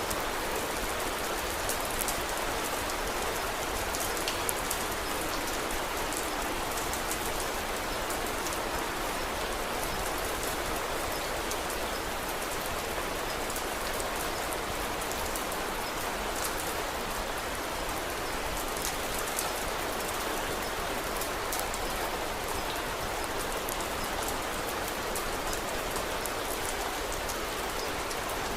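Steady rain falling on a surface, an even hiss with scattered faint sharp ticks.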